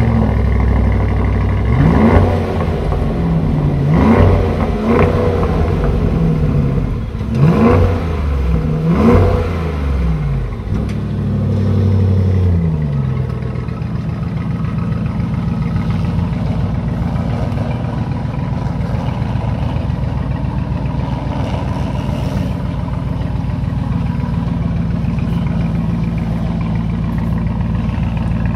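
2021 Audi SQ7's 4.0-litre twin-turbo V8 petrol engine, heard at its quad exhaust tips just after start-up: it is blipped about six times in quick succession, the pitch shooting up and dropping back each time, then settles into a steady idle after about thirteen seconds.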